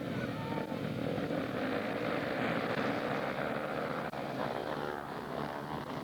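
Motocross bike engine noise running steadily, with the pitch shifting slowly.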